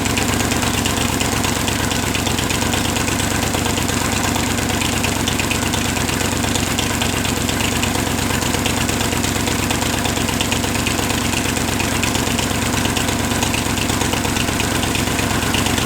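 283 small-block Chevy V8 running steadily on four cylinders with one cylinder head off, idling with a fast, even pulse.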